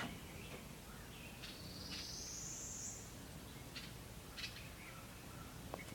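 Faint calls of small birds nesting on a porch: one drawn-out, rising high call about a second and a half in, and a few short clicks spread through.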